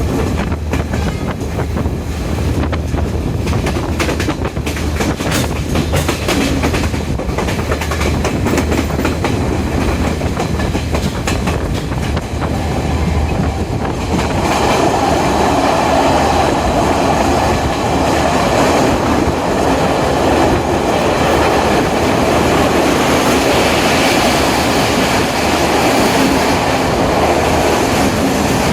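A diesel intercity express train running on the rails: wheels clatter over rail joints above a steady low rumble of the running train. About halfway through it grows louder, with a broad rushing noise.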